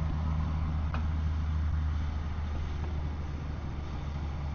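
An engine idling steadily with a low, even hum, and a single short click about a second in.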